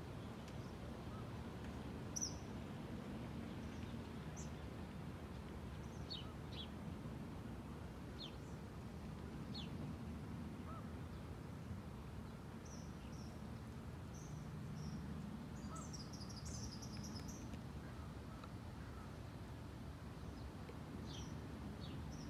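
Wild birds chirping and calling now and then, short high notes scattered throughout with a busier cluster of calls about two-thirds of the way through, over a steady low outdoor rumble.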